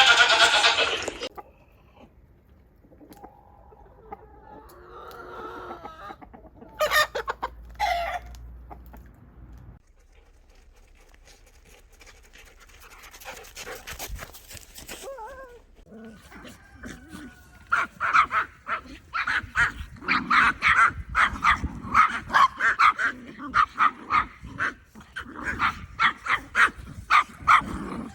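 Chickens clucking, with a dense run of quick repeated clucks through the second half; a loud bleat opens it.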